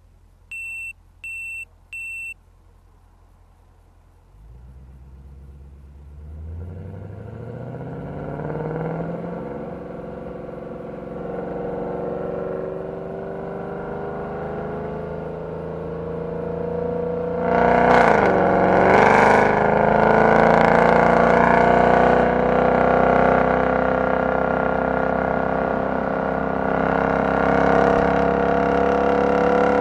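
Three short electronic beeps, then a Mercedes-Benz C63 AMG's V8 engine pulls from low revs and accelerates hard, its note climbing over several seconds. About two-thirds of the way through there is a sudden loud rush with a brief dip in pitch, and then the engine keeps pulling, loud and slowly rising.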